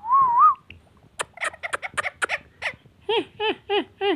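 Ringneck parrot vocalising: a wavering whistled note, then a run of sharp clicking chatter, then four short repeated calls near the end.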